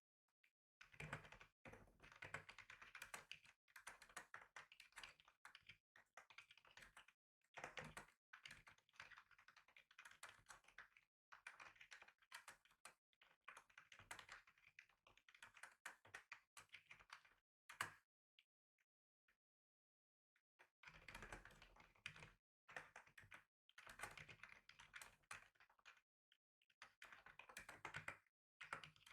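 Typing on a computer keyboard: quick runs of key clicks with short pauses, and a longer break of about three seconds a little past halfway.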